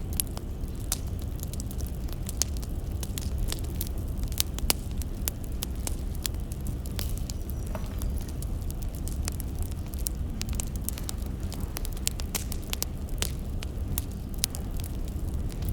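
Firewood burning, crackling with many irregular sharp pops over a low steady rumble.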